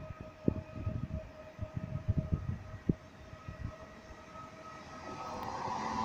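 PESA Elf 2 electric multiple unit pulling into the platform: a steady high whine for the first five seconds, then its running noise swelling as it draws near. Scattered low thumps throughout.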